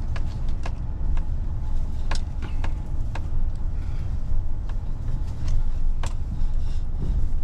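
Pickup truck driving slowly over a rough dirt road, heard from inside the cab: a steady low engine and road rumble, with frequent short knocks and rattles as it jolts along.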